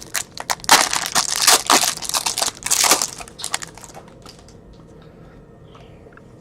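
Plastic trading-card pack wrappers crinkling and crumpling as packs are handled and torn open, for about four seconds, then only a few faint clicks.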